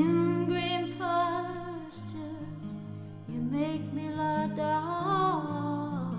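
Acoustic guitar sustaining chords under a wordless sung melody. The voice sings two phrases, the second starting about three seconds in.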